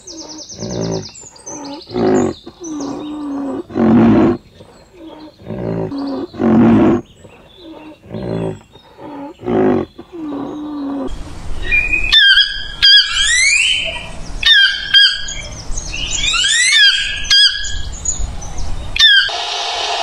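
White rhinoceros calling: a run of short, deep calls about a second apart, some falling in pitch at the end. About halfway through these give way to shrill, rising squeals over a low rumble, and near the end a steady hiss takes over.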